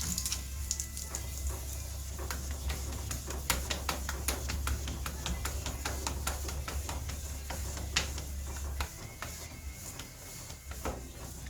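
Wet-sanding a clear-coated truck panel with sandpaper: irregular scratchy strokes and light taps. A low steady hum underneath cuts off about nine seconds in.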